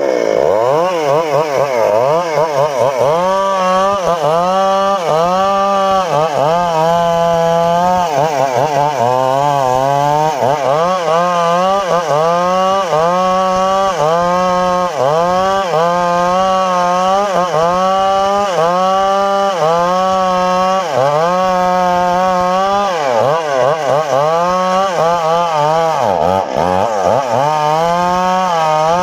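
Homemade circular saw rig cutting teak wood. It gives a loud, steady whine whose pitch sags and recovers about once a second as the blade takes the load in the cut, with one deeper sag a few seconds before the end.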